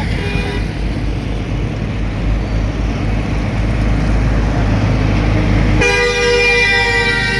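Heavy road traffic with a steady engine rumble. A vehicle horn toots briefly at the start, and about six seconds in another horn sounds a long, loud blast on two close tones that holds to the end.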